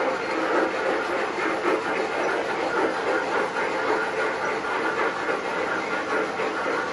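O-gauge MTH Premier model steam locomotives running on the layout: wheels clattering over the track, mixed with the steam chuff and hiss from the locomotives' onboard sound systems.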